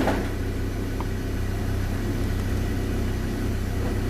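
Mazda BT-50 3.2 five-cylinder diesel running at a steady idle, with a short noise just at the start. It is running normally again after its faulty position sensor was replaced.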